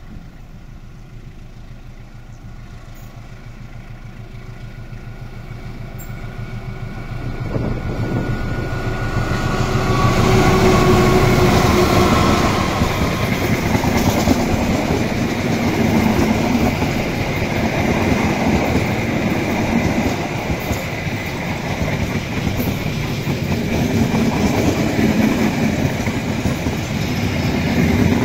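A passenger train hauled by a diesel-electric locomotive approaches, its engine growing steadily louder over the first ten seconds or so. Then the coaches pass close by with loud wheel rumble and clickety-clack.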